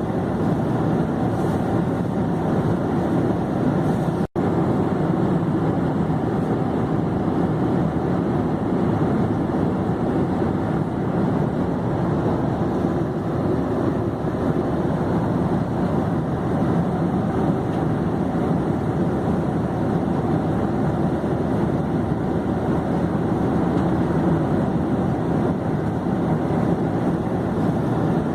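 Airplane in flight: a steady, even rushing drone of engine and airflow noise, broken once by a very short dropout about four seconds in.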